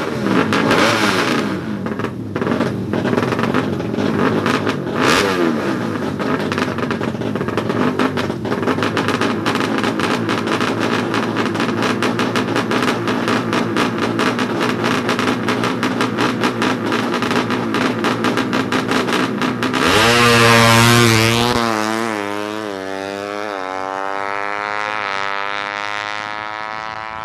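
Suzuki Satria FU 155 cc four-stroke single on a racing exhaust, running hard at high revs. About 20 seconds in it passes loudly. Its pitch then climbs in steps as it shifts up and pulls away.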